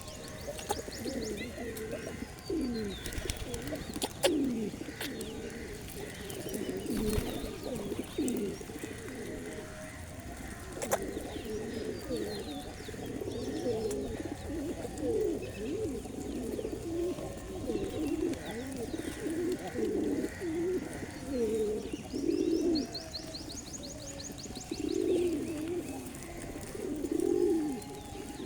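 A group of pigeons cooing, many low coos overlapping continuously. A small bird chirps in short high trills near the start and again about three-quarters of the way through, and there are a few sharp clicks.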